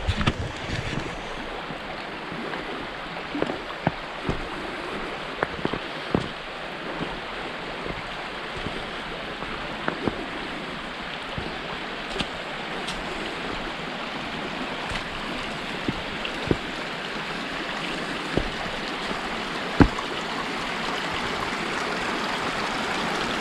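Natural spring water running and splashing steadily, growing gradually louder towards the end, with scattered sharp clicks and knocks over it.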